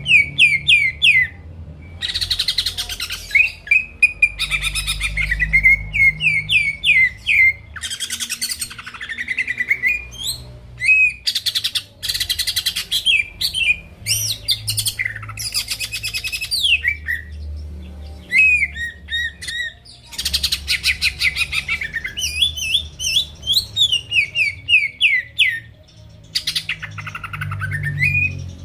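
Cucak ijo (green leafbird) singing in full, continuous song. Runs of quick, sharp slurred whistles alternate with fast buzzy trills, broken by brief pauses between phrases.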